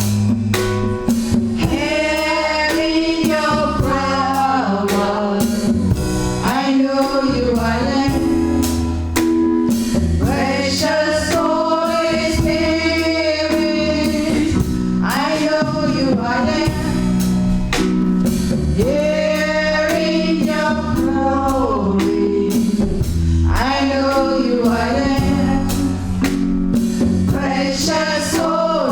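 Gospel choir and singers performing live with band accompaniment. Drums keep a steady beat under sustained bass notes.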